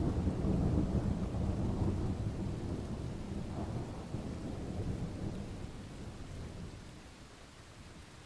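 A thunderclap breaks suddenly over steady rain, then rolls and rumbles low, fading slowly over about seven seconds.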